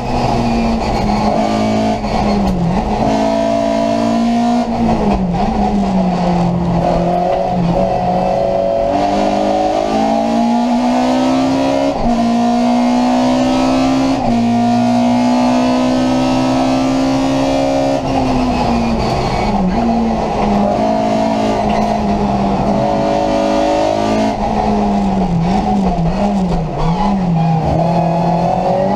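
Race-prepared VW Polo's engine heard from inside the cabin, driven hard through a slalom. Its pitch climbs under acceleration and drops sharply at several gear changes. In places it wavers up and down quickly with short throttle lifts between cones.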